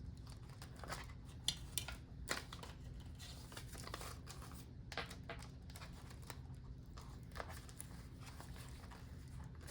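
Paper banknotes being handled and slid into a cash envelope, with faint rustling and crinkling and a few soft clicks.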